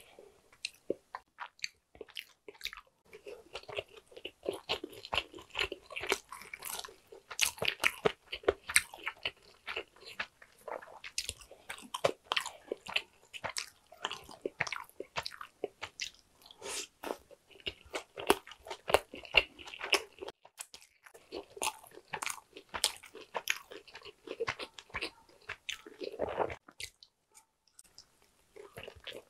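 Close-miked chewing of sushi: irregular wet mouth sounds, clicks and smacks as mouthfuls are bitten and chewed, with a brief lull near the end.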